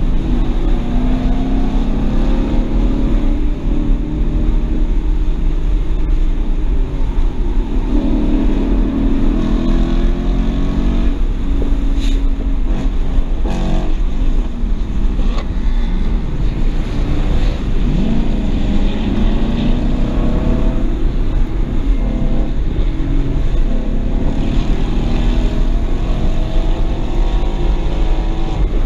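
BMW 335i's N54 twin-turbo straight-six heard from inside the cabin, revving up through the gears and dropping back several times as the car accelerates and slows on track, over a steady rumble of road and wind noise.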